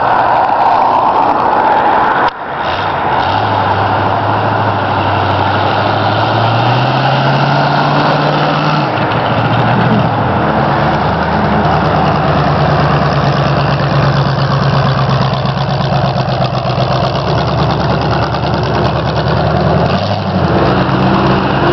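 Demolition derby car's engine running loud as it drives along the road. Its pitch climbs steadily as it accelerates, drops back about nine seconds in, and falls again near the end as it slows. Wind and road noise are heavy at first.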